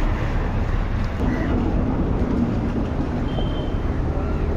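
Steady low rumble with faint voices in the background.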